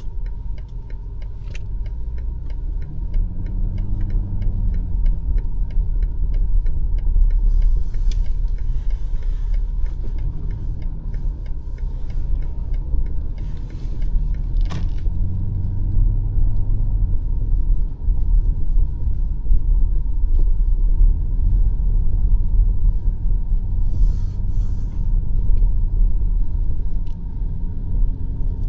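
BMW X5 M50i's twin-turbo V8 and tyres heard as a steady low rumble while driving, the engine note rising and falling several times with speed. A light regular ticking runs through the first several seconds, and a few short hissing bursts come and go.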